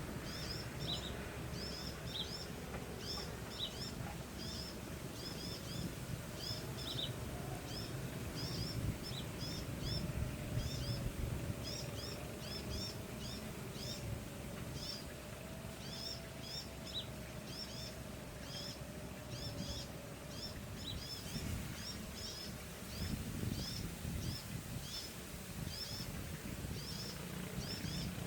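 Short high chirps from a small animal, repeating about twice a second, over a low steady rumble.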